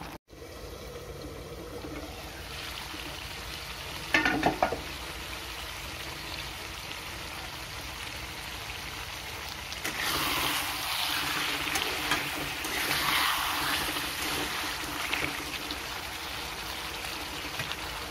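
Pork and potato curry sizzling in a metal kadai, frying down with a splash of water added. A spatula clatters against the pan about four seconds in, and the sizzling grows louder from about ten seconds in for several seconds.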